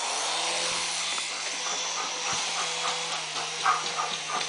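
Small remote-control toy helicopter's electric motor and rotor whirring steadily with a high whine.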